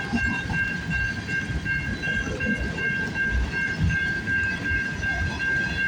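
Freight train cars rolling past with a steady low rumble, and a steady high-pitched tone over it the whole time.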